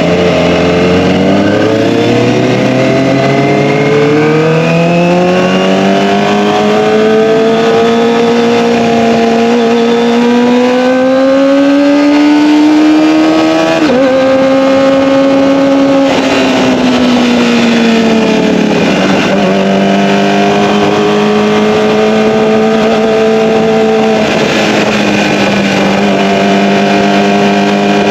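Kawasaki ZX-25R's 249 cc inline-four running through an Akrapovic Evolution exhaust while being ridden. The engine note dips at the start, climbs slowly for about thirteen seconds, changes pitch abruptly with a gear change about fourteen seconds in, falls again, and then holds a nearly steady cruising note.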